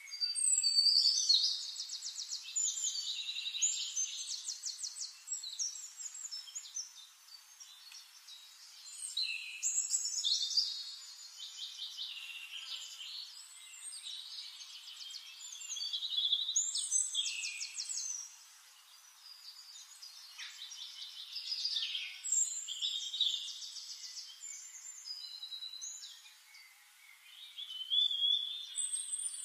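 A bird singing in long, rapid, buzzy, high-pitched phrases that come in loud spells every five or six seconds.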